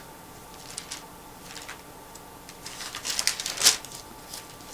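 Light clicks and rustles over faint room hiss, with a quick cluster of sharper clicks about three seconds in.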